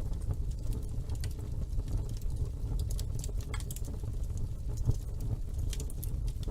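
Wood fire burning in a fireplace, a steady low roar of flames with frequent small, irregular crackles and pops.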